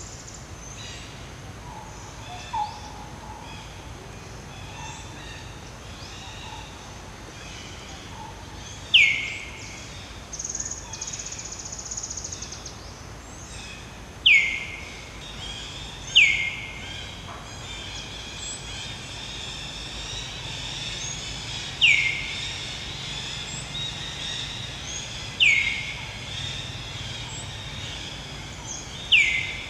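Birds calling: one bird repeats a loud, short call that sweeps down in pitch, six times at irregular gaps, over a steady background of faint high chirping.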